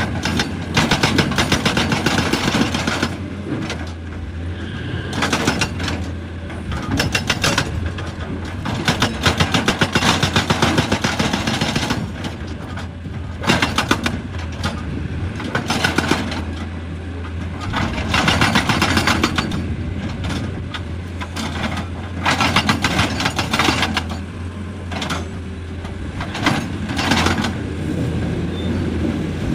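Excavator engine running steadily under load, with repeated bursts of rapid clattering impacts as rock is broken, each burst lasting a second or two.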